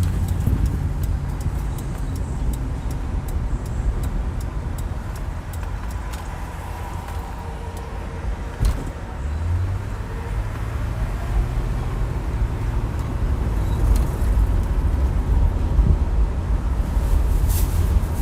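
Car cabin noise while driving: a steady low rumble of road and engine, with a low hum joining about halfway through and a few faint clicks.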